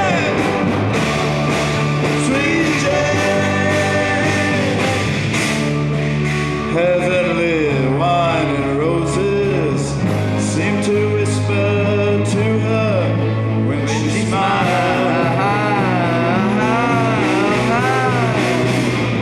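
Live rock band playing at full volume: electric guitars, organ, bass and several drum kits keep a steady beat, with the bass changing note every couple of seconds and a wavering lead melody over the top.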